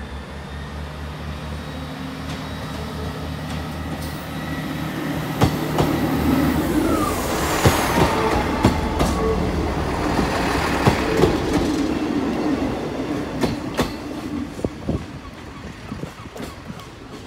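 Northern Class 158 diesel multiple unit pulling away, its underfloor diesel engines working and building in volume, with the wheels clicking over rail joints as the coaches pass. It then fades as it goes away.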